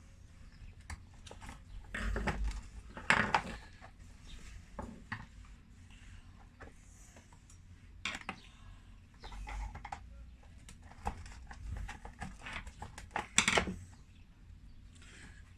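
Metal tools and small chainsaw parts being handled: irregular clicks, knocks and clatters as screws and bolts are worked loose during the saw's disassembly, with the loudest clatters about three seconds in and near the end.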